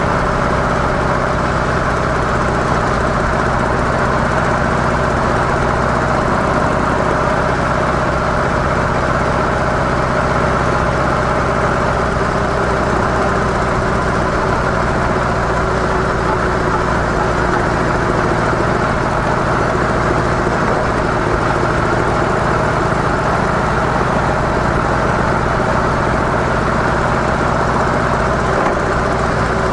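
Harley-Davidson CVO Softail's V-twin engine running steadily through its stock mufflers, with wind and road noise on the microphone.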